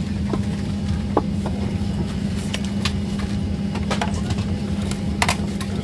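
Steady low drone of a Boeing 737 airliner cabin on the ground before departure, with a constant hum and rumble from the aircraft's running systems. Scattered small clicks and knocks from the cabin sound over it.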